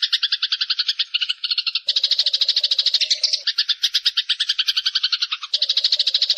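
Eurasian tree sparrows chattering: a fast, unbroken run of sharp chirps, about eight to ten a second. The chatter changes character twice, about two seconds and five and a half seconds in.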